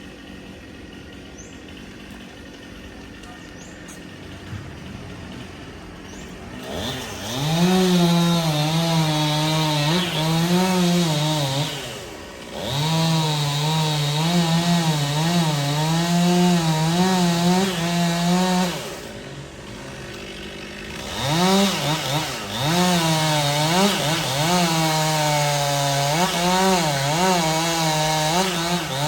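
Stihl two-stroke chainsaw revving up and cutting wood at high throttle, its pitch wavering as it works under load. It eases off briefly about halfway through, and again for a couple of seconds about two-thirds of the way in, then bites back into the cut each time. Before it starts there is only a faint low background.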